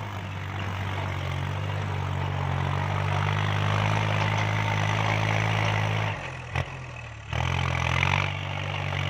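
Kubota L3218 tractor's diesel engine running steadily under load while pulling a rotary tiller. The sound drops away briefly about six seconds in, then comes back.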